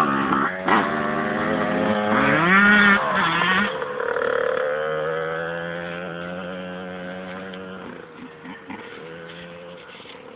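Motorbike engine revving up sharply about two to three seconds in, then running at a steady note that fades away over the following several seconds.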